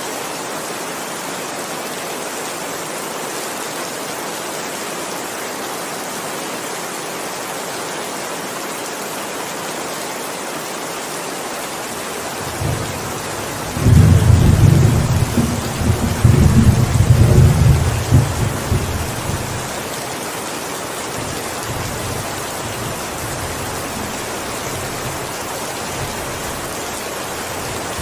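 Steady heavy rain, with a long low roll of thunder starting about halfway through, loudest for a few seconds and then rumbling away.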